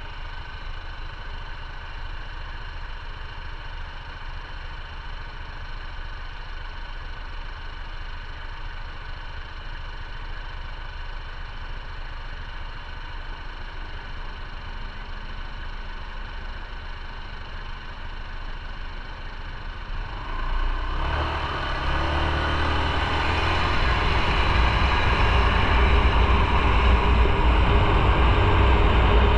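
Motorcycle running at low, steady idle; about 20 seconds in it pulls away, and the engine and rushing noise grow steadily louder.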